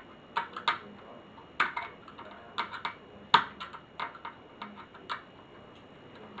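Irregular light clicks and taps, about a dozen spread over several seconds with the loudest about halfway through, from plastic and metal laptop parts being handled during disassembly.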